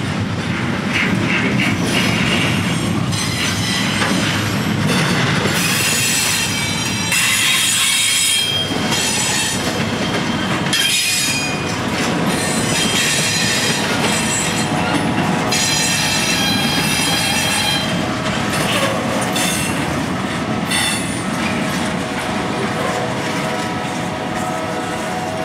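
Double-stack intermodal freight train's well cars rolling past, with a steady heavy rumble of steel wheels on rail. High-pitched wheel squeal comes and goes every few seconds.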